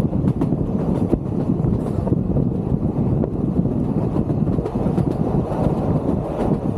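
Vintage Sóller railway train running along the track: a steady rumble of wheels on rails, with a few faint clicks.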